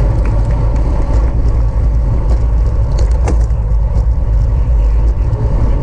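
Steady, loud rumble of wind and road noise from a racing bicycle at speed, with a few sharp clicks about three seconds in.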